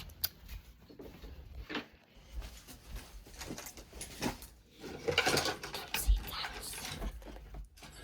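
Rummaging through small belongings in search of hair ties: irregular clicks, knocks and rustling of objects being handled, busiest about five seconds in.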